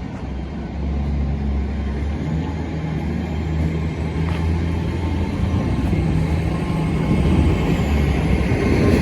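Class 800 bi-mode train's underfloor diesel engines running steadily as it pulls out, a low hum that grows louder toward the end.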